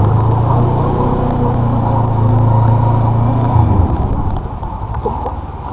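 Honda NX500 parallel-twin engine running at steady revs as the motorcycle wades through floodwater, over a hiss of rain and splashing water. About three and a half seconds in, the engine note drops away as the bike slows almost to a stop.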